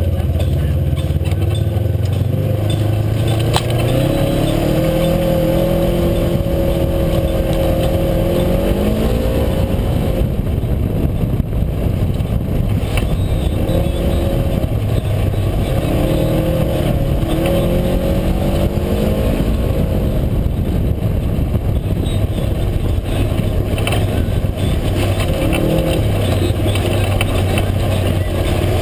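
UTV engine running under way, its pitch climbing and falling several times as the throttle is worked, over a steady rumble of noise.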